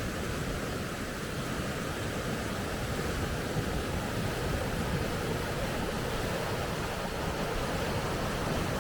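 Rushing water of river rapids: a steady, unbroken roar of white water.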